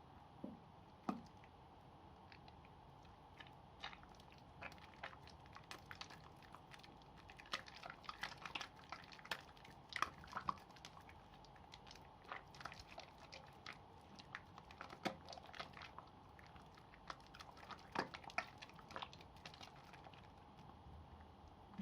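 Wet soap made of leftover pieces pressed together, lathered in the hands: irregular soft squishes and crackling clicks of foam, over a faint steady hum.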